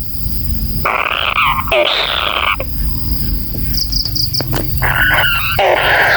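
A kingfisher (tengkek kayu) giving harsh, rasping calls in bursts of about a second. A quick run of short high notes comes in the middle.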